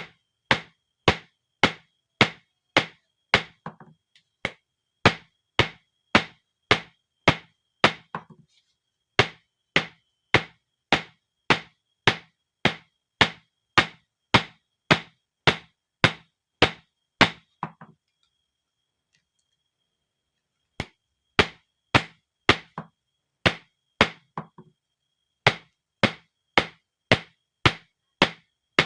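Hammer blows on steel from an old bearing being forged into a knife, about two strikes a second in runs. The runs break briefly a few times, with a pause of about three seconds in the middle.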